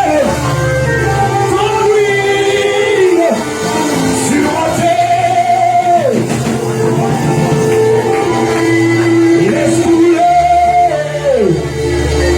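Live worship music: a voice holding long sung notes that slide down at their ends every three to four seconds, over a steady band accompaniment with bass.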